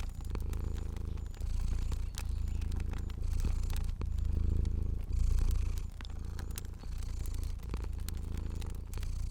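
Cat purring close up, a low rumbling purr that swells and breaks about once a second with each breath in and out. A wood fire crackles beneath it with scattered sharp pops.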